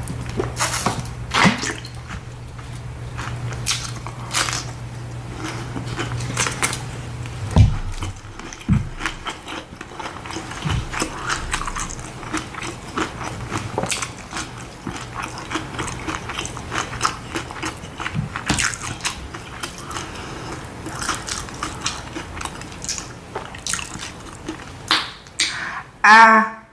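Close-up chewing and biting of crunchy hard taco shells, with many small irregular crunches and wet mouth sounds. Near the end comes a short, loud sound from the eater's voice.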